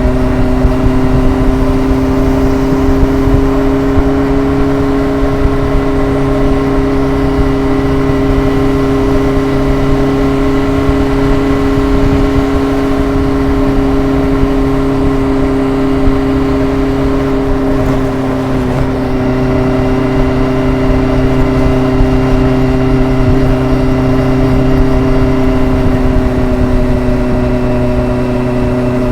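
Kawasaki ZRX's inline four-cylinder engine and exhaust while riding, holding a nearly steady engine speed with a gentle, even exhaust note. There is a brief small dip in pitch about two-thirds of the way through, then it settles again, with road and wind noise underneath.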